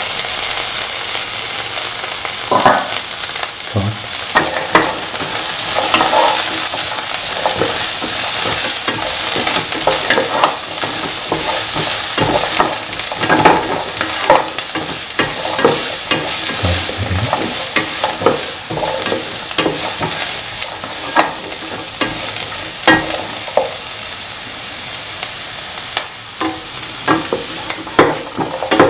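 Sliced onions and shallots with ginger, garlic and red chilies sizzling in hot oil in a pan, a steady frying hiss. A utensil scrapes and knocks against the pan again and again as they are stirred.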